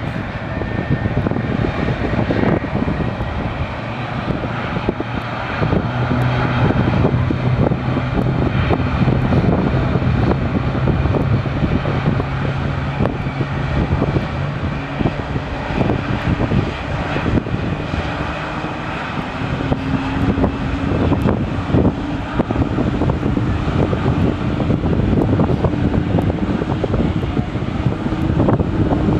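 Airliner engines running loud and steady: a rumble under a low drone, with a higher tone that steps up in pitch in the second half.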